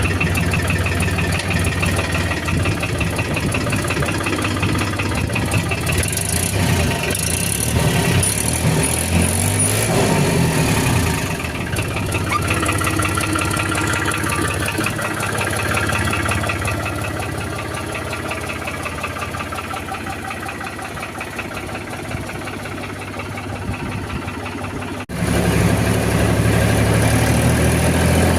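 Fiat tractor's diesel engine running just after starting. It revs up and back down about ten seconds in, then runs steadily. It grows gradually quieter, then jumps abruptly louder about 25 seconds in and runs on steadily.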